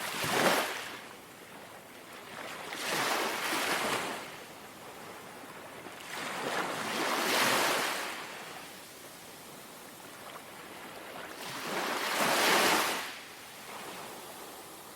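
Gentle sea waves lapping on a shore: four soft washes a few seconds apart, each swelling and then fading, with a smaller one near the end.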